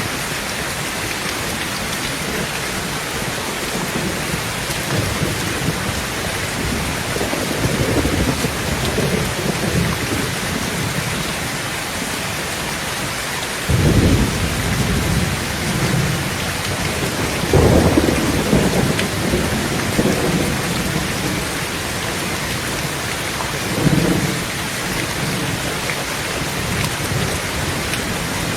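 Heavy rain beating steadily on a tin roof, with thunder rumbling in several times: a faint roll about a quarter of the way in, a sudden clap about halfway, a longer roll soon after, and a short one near the end.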